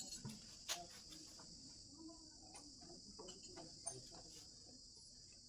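Steady, faint high-pitched insect chirring, with a few scattered faint clicks and taps, the sharpest under a second in and another near four seconds in.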